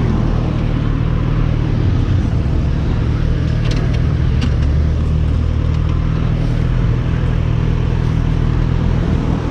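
A motor vehicle's engine running at a steady pitch, with road and wind noise over it and a few faint ticks about four seconds in.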